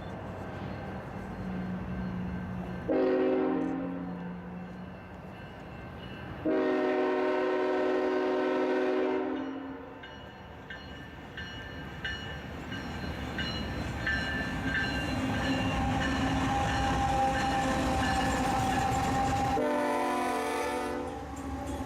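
Diesel freight locomotive horn sounding three blasts: a short one about three seconds in, a long one of about three seconds, and another short one near the end. Between the blasts the train's engines rumble, growing louder as it approaches.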